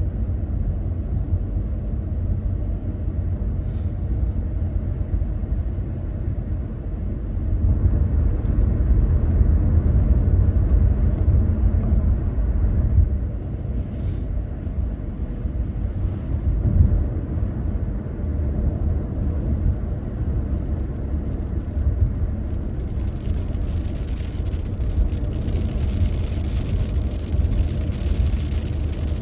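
Car driving on the road: a steady low rumble of engine and tyres, swelling a little for a few seconds about a quarter of the way in. Two short clicks break through, and in the last few seconds a higher hiss joins the rumble.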